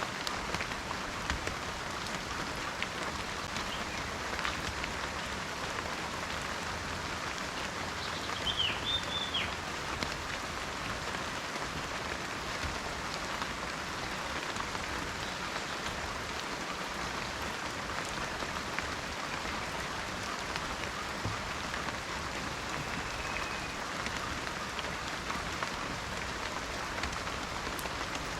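Steady rain falling in a forest, a dense even patter with no letup. A short bird call sounds about a third of the way in.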